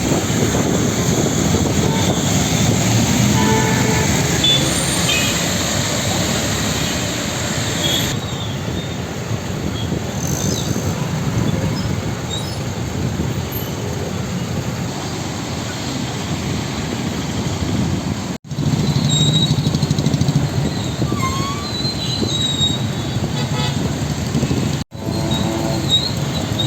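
Congested road traffic: a steady wash of engine and road noise with vehicle horns tooting now and then. The sound drops out suddenly and briefly twice, at edits.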